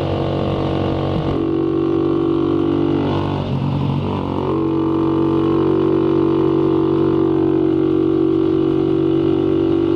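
Motorcycle engine running steadily while riding; its note breaks and shifts about three to four seconds in, then holds steady again.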